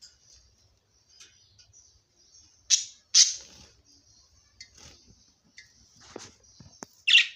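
Budgerigars chattering in a continuous high warble, broken by loud sharp chirps: two close together about three seconds in and one near the end.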